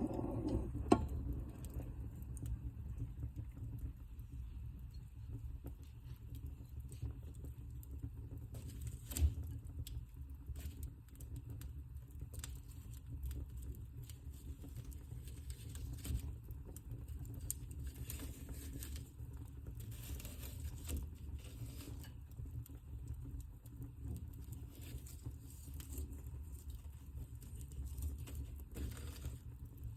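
Wood fire burning in a fireplace: a steady low rumble of the flames with irregular crackles and pops, one louder pop about nine seconds in, and brief hisses now and then.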